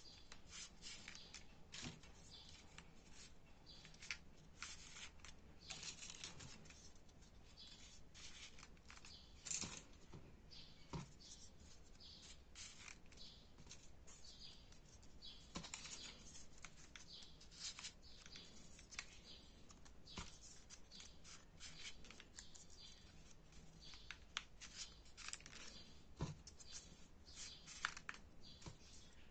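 Faint, irregular rustling and crinkling of small folded paper triangle units being handled and pushed into place on a 3D origami model, with a few sharper paper ticks.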